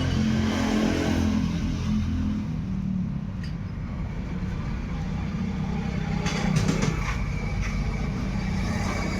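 Chevrolet Tavera diesel engine running. Its speed drops from a raised rev back toward idle about two to three seconds in, then it runs steadily. There is a brief rattle about six and a half seconds in.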